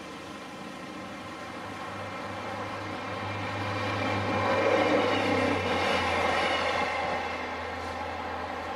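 Diesel train passing on the line, growing louder to a peak about five seconds in and then easing away, over a steady engine hum.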